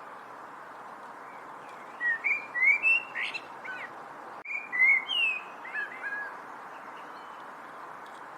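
A songbird singing two short phrases of quick chirps and whistled notes, about two seconds in and again about four and a half seconds in, over a steady background hiss.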